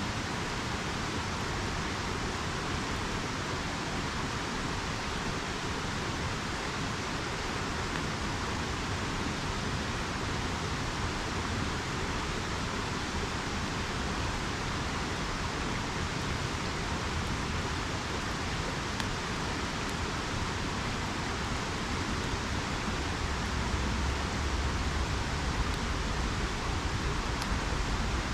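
River water rushing steadily, a constant even hiss, with a low rumble growing stronger in the last few seconds.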